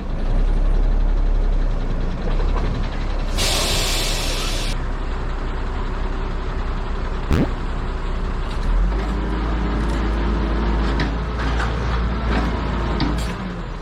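Heavy truck's diesel engine running with a low, steady rumble. About three seconds in, compressed air hisses out sharply for a little over a second, like an air-brake release, and a single knock comes about halfway through.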